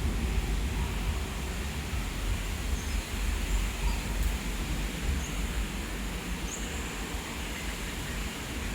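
Outdoor weather ambience: an uneven low rumble of wind on the microphone over a steady hiss, with a few faint, short bird chirps.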